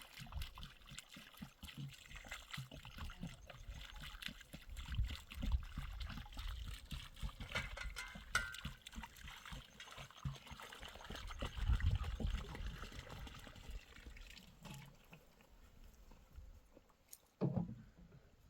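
Water trickling, with dull low knocks and rumbles. The trickle fades out about 14 seconds in.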